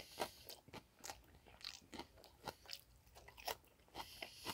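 Faint, close-miked mouth chewing and crunching on a bite of supreme pizza, a quick run of short crunchy clicks about three or four a second.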